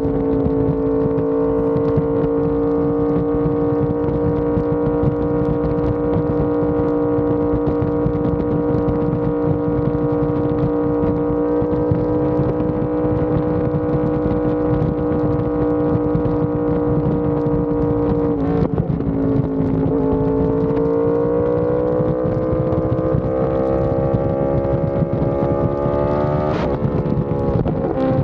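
Yamaha R1M inline-four sport-bike engine through an SC Project exhaust, holding steady revs while cruising. After a brief break in the note about 18 s in, it climbs in pitch under acceleration for several seconds, then drops suddenly near the end with an upshift.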